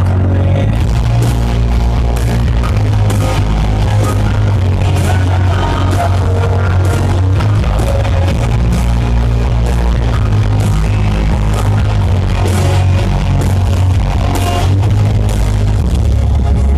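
Live band playing loud amplified pop-rock through a concert PA: an instrumental passage with heavy bass and drums hitting a steady beat.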